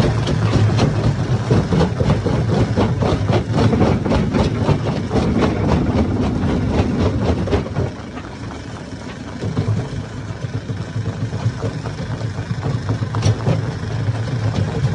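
Hammer stone crusher running with a steady low engine drone, rocks knocking and clattering through it in rapid sharp hits for the first half. About eight seconds in the knocking stops and the level drops, leaving mostly the machine's hum.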